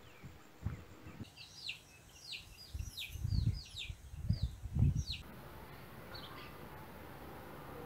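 A bird calling outdoors: a quick series of about a dozen short, falling chirps over roughly four seconds, starting about a second in, with low rumbles on the microphone underneath. After that the background goes quieter, with a couple of faint chirps.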